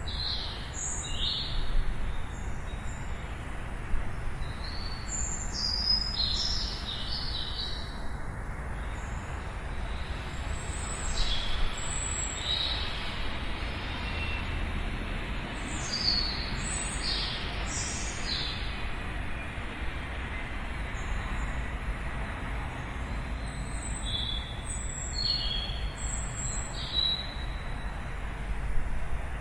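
Small birds chirping in short high clusters on and off, over a steady low rumble.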